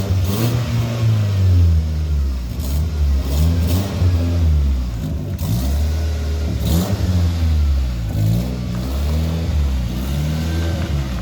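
Donkervoort D8's Audi-built engine revving, its pitch rising and falling again and again, about once a second.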